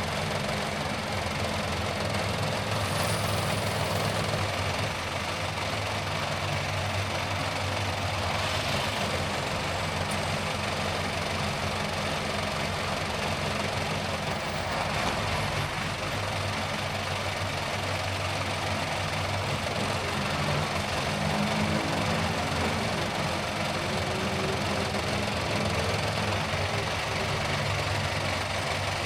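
A car driving steadily: engine hum with road and tyre noise.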